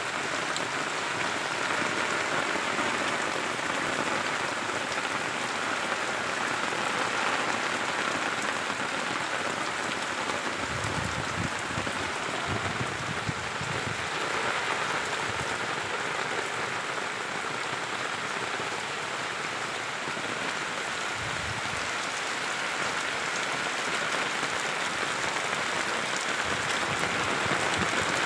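Steady, heavy rain falling in an open field, an even hiss with no let-up. Brief low rumbles come through a little before the middle and again about three quarters of the way in.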